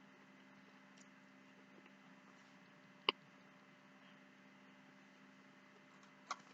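Two sharp clicks of a fork knocking against a dish while eating, one about three seconds in and one near the end, over a faint steady hum.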